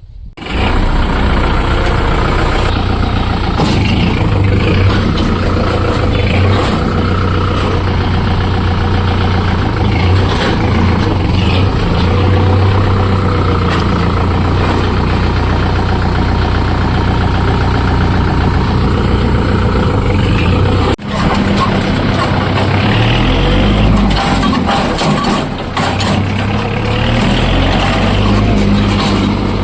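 Kubota MU4501 tractor's four-cylinder diesel engine running steadily. It drops out briefly about two-thirds of the way through, then its engine speed rises and falls.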